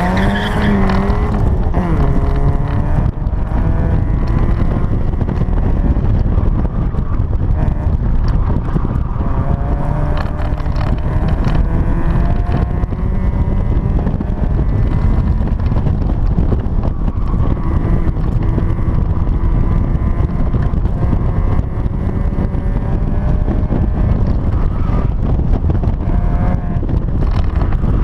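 1992 Mazda Miata's 1.6-litre four-cylinder engine driven hard, its revs topping out right at the start and then rising and falling again and again through the gears and corners. Wind rushes through the open cockpit.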